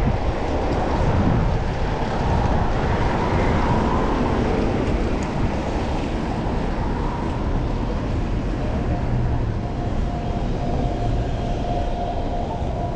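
Steady rush of wind and road noise heard from a moving bicycle in city traffic. A faint, thin whine comes in after about eight seconds and holds for a few seconds.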